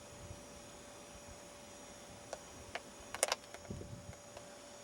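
Quiet background with a faint steady hum and a few light clicks, the loudest a quick pair a little past three seconds in, followed by a few soft knocks.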